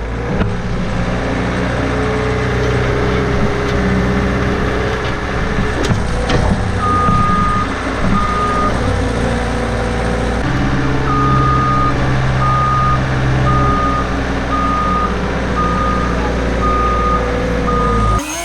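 Skid steer engine running steadily under load, with its reversing alarm beeping at a regular pace from about a third of the way in, pausing briefly, then resuming. The sound cuts off abruptly just before the end.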